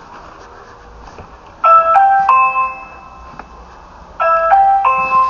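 Doorbell chime playing a short tune of a few clear notes, rung twice about two and a half seconds apart.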